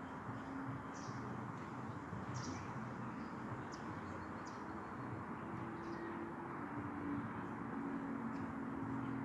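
Outdoor ambience of steady background noise with a faint low hum, and several short, high bird chirps in the first half.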